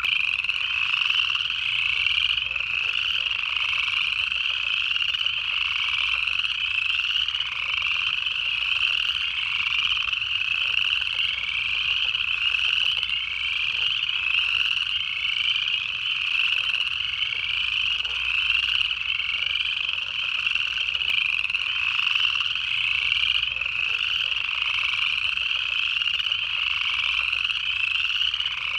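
A dense chorus of upland chorus frogs, their short rising trills overlapping without a break.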